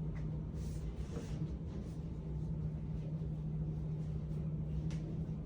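Steady low hum of room noise, with a few faint rustles.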